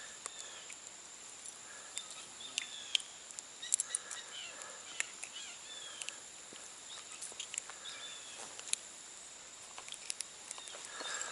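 Streamside outdoor ambience: a steady high insect-like drone, a few faint short bird chirps, and scattered light clicks and taps.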